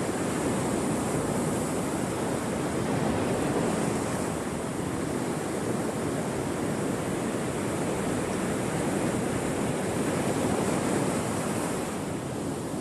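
Ocean waves breaking and washing on the shore in a continuous rush of surf, swelling and easing slowly in loudness.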